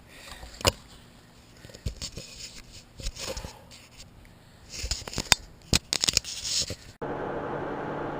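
Irregular clicks, scrapes and rustles of close handling. About seven seconds in, this cuts abruptly to the steady hum and rush of a Honda Gold Wing motorcycle under way on the road.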